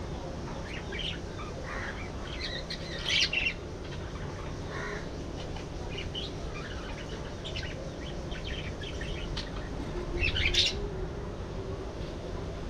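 A flock of budgerigars chattering with many short, high chirps, with two louder bursts of calls, about three seconds in and again about ten seconds in.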